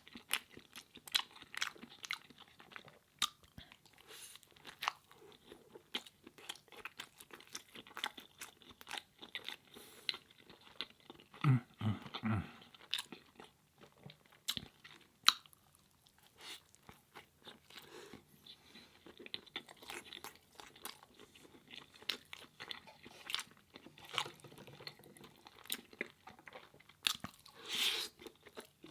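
Close-miked chewing and crunching of food in a person's mouth: a steady run of wet clicks and crunches. A brief low hum is heard about twelve seconds in.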